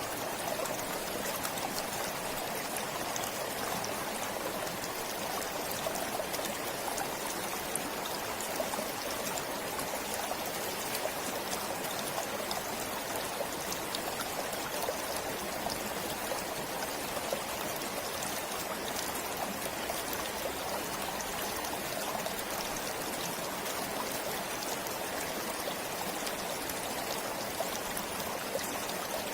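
Forest stream flowing steadily: a continuous rush of running water with many small trickling splashes over it.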